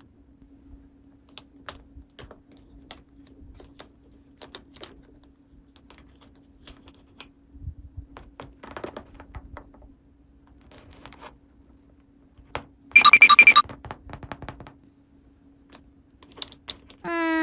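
Small plastic toy pieces clicking and tapping as they are handled, over a faint steady hum. About 13 seconds in there is a short, loud, pulsing beep, and right at the end a held pitched tone begins.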